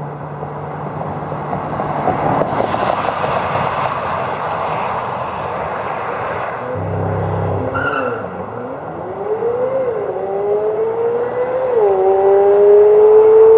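Chevrolet C8 Corvette Z06 prototype's flat-plane-crank V8 under hard acceleration: a low steady engine note, a rush of noise, then the engine revs up and climbs, with two quick upshifts of the dual-clutch gearbox, each a sudden drop in pitch, getting louder near the end.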